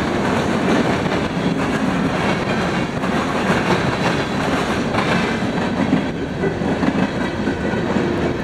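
Freight train passing close by, its cars rolling past with a steady, loud rumble and rattle of wheels on rail.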